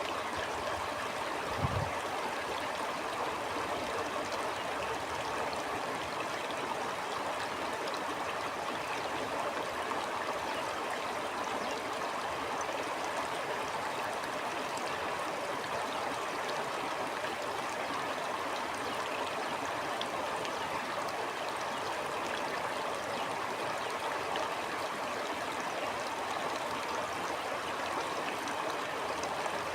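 Stream water flowing and trickling steadily, with one brief low thump about two seconds in.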